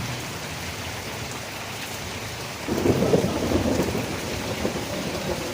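Steady rain falling, with a sudden louder low rumble about two and a half seconds in that fades over a second or two.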